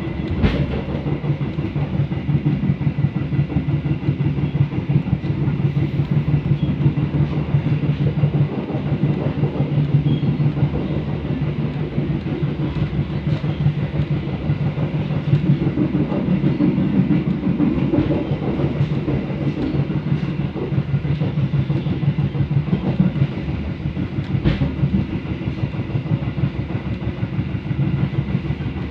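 Pariaman Express passenger train running along the track: a steady low rumble with the rapid rattle of wheels on rail, and two sharp clacks, one about half a second in and one near the end.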